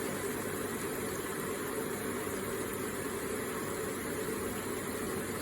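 Small electric water feature running, water trickling and splashing steadily.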